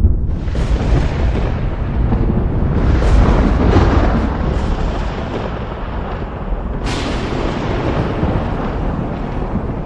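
Thunder rolling and rumbling continuously, with crackling that builds to a peak a few seconds in and a sharp clap about seven seconds in that rumbles away.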